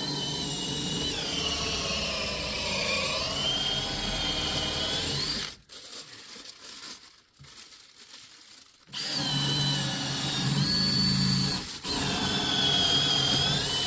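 Power drill running under load in long runs, its whine sagging in pitch as it bogs down and rising again. It stops for a few seconds near the middle, then runs twice more with a brief break between.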